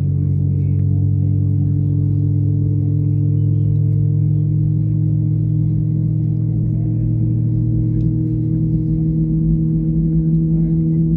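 Airbus A320neo engines and airframe heard from inside the cabin as a loud, steady humming drone, several low tones held level over a rumble.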